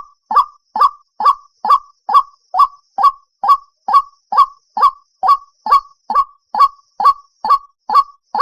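White-breasted waterhen calling: short, harsh croaking notes repeated evenly, a little over two per second, in a monotonous series. This is the bird's call as used for lure playback to trap waterhens.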